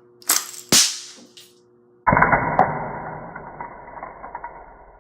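Two sharp cracks less than half a second apart near the start, from a Nerf dart fitted with a taped-on popper cap going off. About two seconds in comes a sudden low, muffled rush that fades over about three seconds, the same bang slowed down in slow motion.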